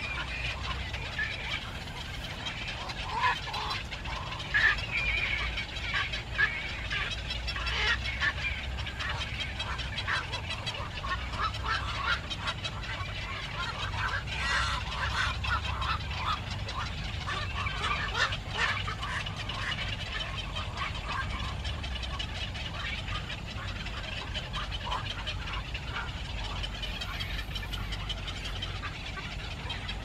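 Birds chirping: many short, high calls in quick succession, thickest around the middle, over a steady low rumble.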